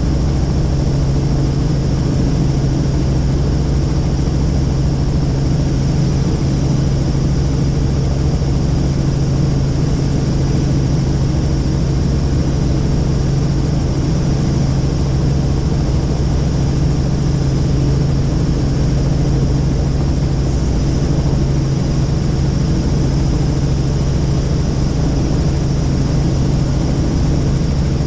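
Helicopter engine and rotor running steadily in flight, heard from inside the cabin as a loud, even drone with a constant low hum.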